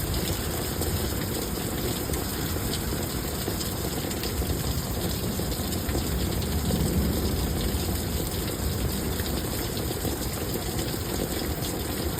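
Heavy thunderstorm rain pouring steadily, a continuous even rushing with a deep low rumble beneath it.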